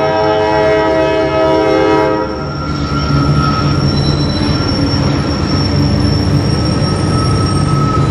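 CSX freight locomotive's air horn blowing a multi-note chord, cutting off about two and a half seconds in. Then the lead diesel locomotives pass close by: loud engine rumble and wheel-on-rail noise, with a thin, steady high-pitched squeal over it.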